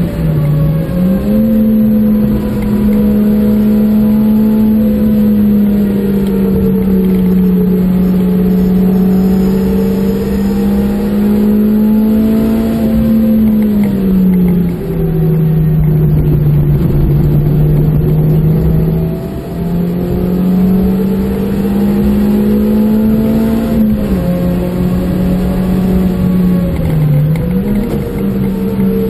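Suzuki Swift Sport's 1.6-litre four-cylinder engine heard from inside the cabin, driven hard on a race track with a steady high-revving drone. Its pitch drops for several seconds around the halfway point and then jumps back up, with brief dips near the start and near the end as the driver eases off and shifts. Tyre and road noise run underneath.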